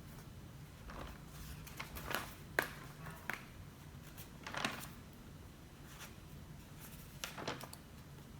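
Scattered soft rustles and taps of paper and stationery being handled during desk study work, about half a dozen in all, with the loudest around the middle, over a low steady hum.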